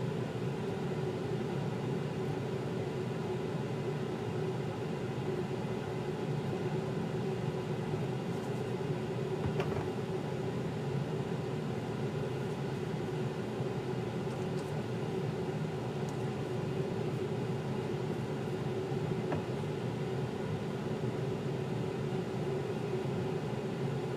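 A steady low mechanical hum with no change in pitch or level, and a single faint click about ten seconds in.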